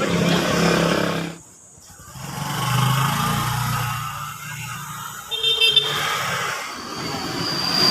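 Road traffic with a vehicle engine running and a short horn beep a little past halfway.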